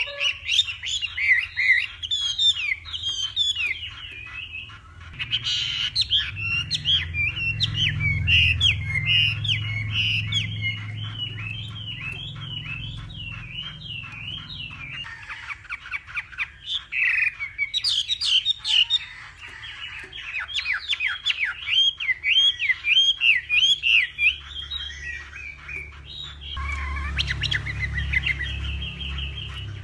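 Chinese hwamei singing a long, fast run of varied whistled phrases without pause, with a low rumble underneath at times.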